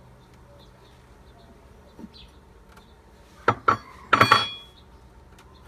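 Hard objects clinking and knocking together: two sharp knocks, then a louder clattering clink with a brief ring.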